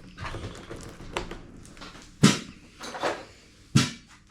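A parcel being opened by hand: rustling of packaging with three sharp knocks, the loudest about two seconds in and another near the end.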